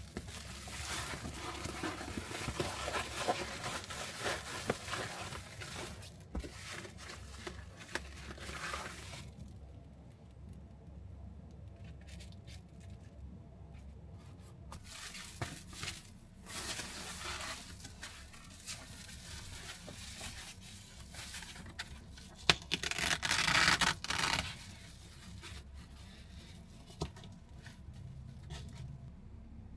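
Rustling and crinkling of something being handled, dense for the first nine seconds, then in short bursts, the loudest starting with a sharp click about two-thirds of the way through.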